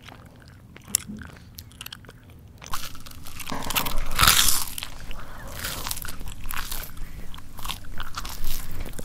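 Close-up chewing and biting: a person eating with wet, crunchy mouth sounds. It is sparse and fairly quiet at first, then denser and louder from about three seconds in.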